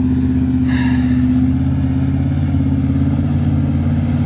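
Pickup truck engine running loud and steady, held at one unchanging engine speed.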